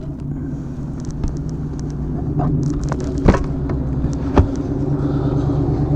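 Suzuki Intruder Volusia 800 V-twin motorcycle engine running under way, with its steady hum getting gradually louder. Two short sharp clicks come in the middle, about a second apart.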